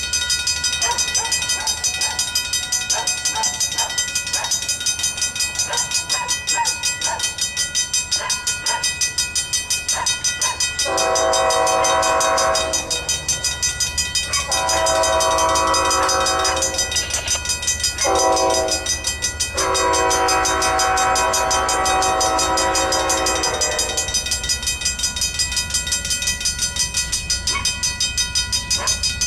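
Diesel locomotive air horn blowing the grade-crossing signal, long, long, short, long, as a BNSF train approaches and passes at speed, over a low rumble of the train. A fast, steady ringing pulse runs underneath throughout.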